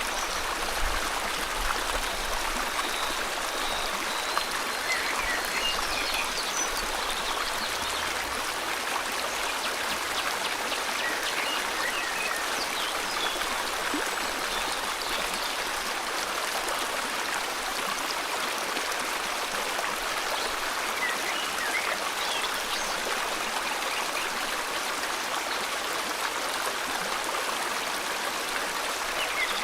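River water flowing steadily, with scattered short bird chirps over it, most of them in the first several seconds and again near the end.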